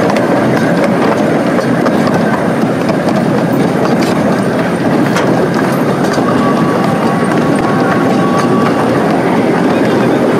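Steady running noise of a park ride train heard from aboard, with faint clicking of the wheels on the rails. A faint, thin squeal sounds for a couple of seconds past the middle.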